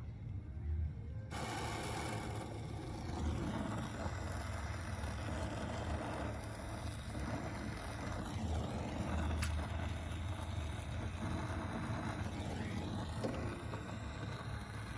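Gas brazing torch flame on copper air-conditioner pipe, a steady hiss over a low rumble. The hiss comes in sharply about a second in.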